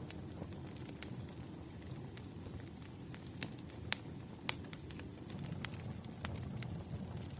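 Wood fire burning: irregular sharp crackles and pops from the burning firewood over a low steady rumble, with the loudest pops near the middle.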